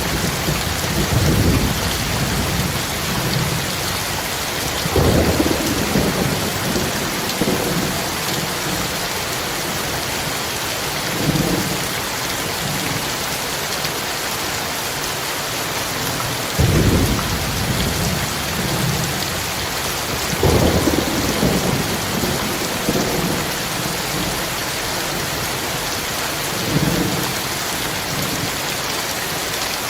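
Heavy rain falling steadily, with thunder rumbling low about six times, each roll lasting a second or two.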